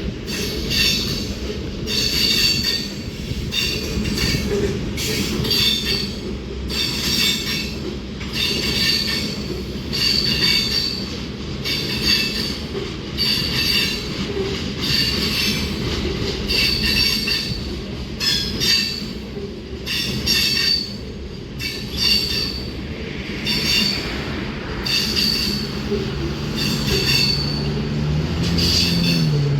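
Freight train cars rolling past, their wheels squealing in short bursts about once a second with clacks over the rail joints and a steady low rumble underneath. A low pitched hum rises near the end.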